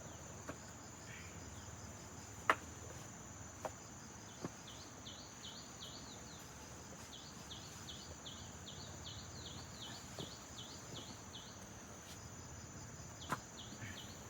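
Insects making a steady high drone. From about four seconds in come rapid, repeated short chirps, each falling in pitch. A few sharp clicks stand out, the loudest about two and a half seconds in.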